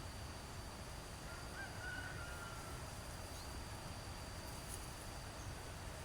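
Quiet riverside ambience: a steady low rumble with a thin, steady high-pitched insect drone over it, and a faint short call about two seconds in.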